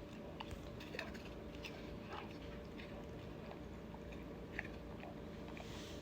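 A dog biting and chewing a piece of apple, with short crisp crunches at irregular intervals over a low steady hum.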